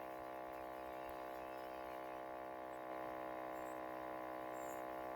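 A faint, steady hum of many held tones, unchanging throughout, with no other events.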